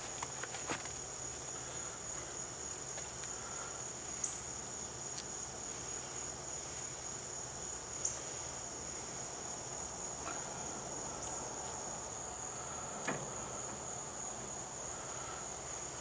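Steady insect chorus, crickets trilling on one high even pitch, with a few light clicks about four, eight and thirteen seconds in.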